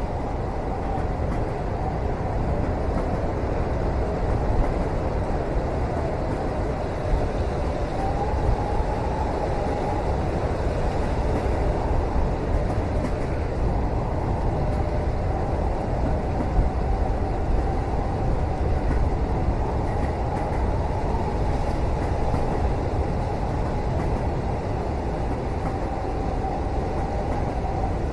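Steady rumble of a moving train heard from inside a passenger carriage, with a faint wavering whine above it and a few small knocks now and then.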